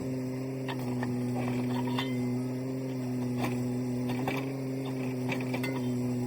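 An engine running at a steady speed, with a few light clicks and clanks over it.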